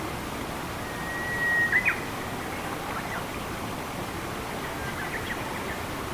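Steady rushing of a forest stream. A bird gives one long thin whistle about a second in, ending in two short sharp notes, then a few faint chirps later.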